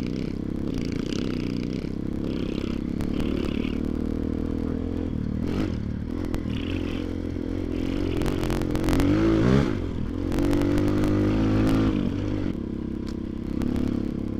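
Motoland XR250 dirt bike's engine running under way, with the revs rising sharply about nine seconds in, over clattering and scraping.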